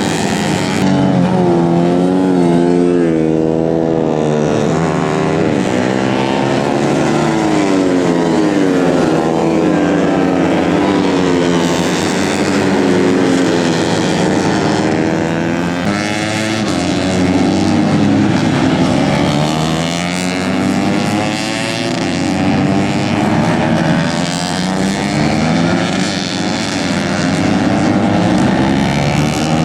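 Several tuned 130 cc four-stroke underbone race motorcycles running hard on track at once. Their engine notes climb and drop repeatedly through gear changes and overlap one another.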